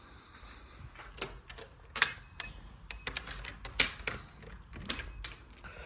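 A string of irregular sharp clicks and knocks, loudest about two seconds in and again near four seconds, over a low rumble.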